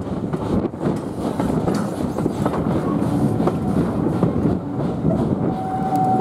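Railway carriage running along the line: a steady rumble of wheels on rail, with scattered clicks over the rail joints. A thin steady high tone starts near the end.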